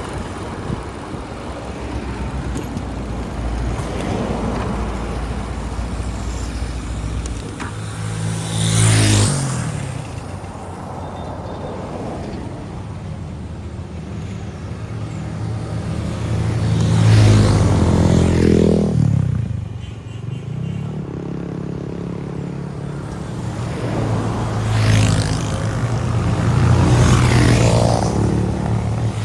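Motorbike engine running through street traffic. Its note rises and falls, with three louder surges where the engine picks up speed or vehicles pass close.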